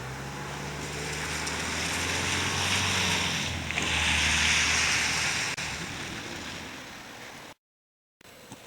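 A vehicle passing on a wet, slushy road: a low engine hum with tyre hiss that swells to a peak about halfway through and then fades. The sound cuts out abruptly near the end and resumes more quietly.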